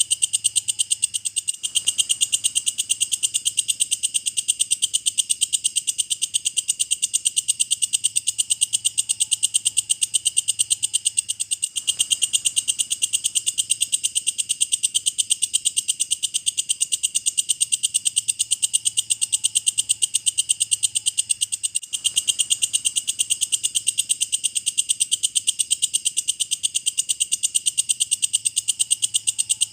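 Walang kecek insect singing: a steady, high-pitched chirring made of rapid, evenly spaced pulses that runs on without a break.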